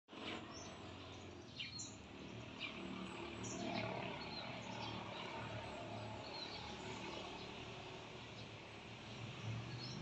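Small birds chirping, short high calls scattered every second or so, over a steady low hum of outdoor background noise.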